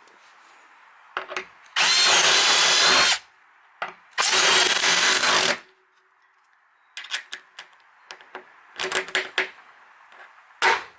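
Power drill run in two bursts of about a second and a half each, with a short pause between, followed by scattered light clicks and knocks of hardware being handled.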